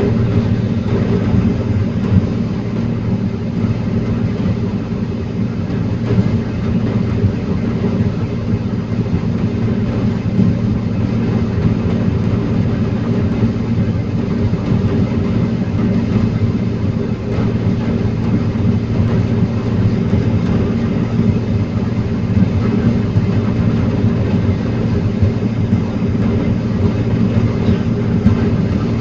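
Heavy engine of a forestry machine running steadily at a constant speed.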